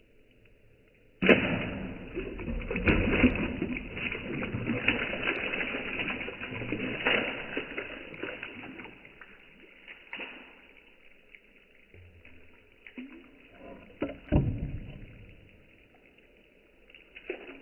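A piece of broken roof tile plunging into a bucket of rainwater with a sudden splash about a second in, followed by several seconds of noisy sloshing that fades away, then a few smaller hits later on.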